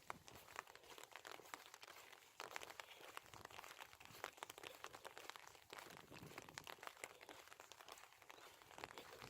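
Faint, irregular crackling and ticking of light rain, with no steady rhythm.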